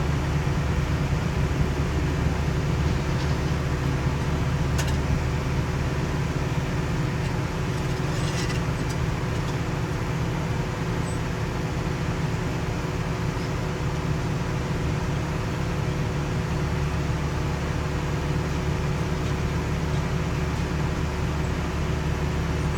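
Diesel engines of asphalt paving equipment running steadily at a constant speed, a deep even drone. A couple of faint clinks come through, about five and eight seconds in.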